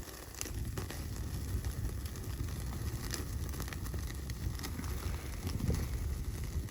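Wood fire crackling: scattered sharp pops over a steady low rumble.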